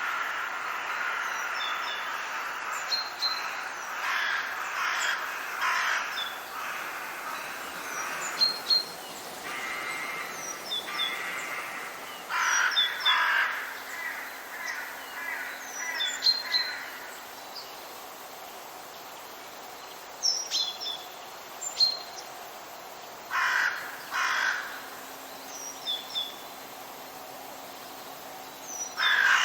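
Forest birds calling: bouts of harsh, repeated calls a few times through, with short high chirps from smaller birds in between.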